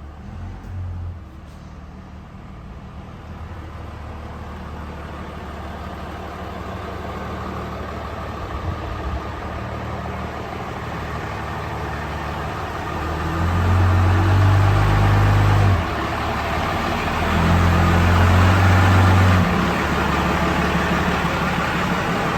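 12-valve Cummins inline-six turbodiesel in the truck, running with a steady low drone that slowly builds. It gets clearly louder twice, a couple of seconds each, in the second half.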